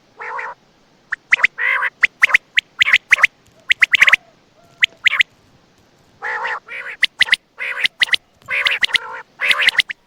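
Common quail calling: an irregular run of short, harsh nasal calls mixed with quick sharp chirps, pausing briefly about midway before resuming.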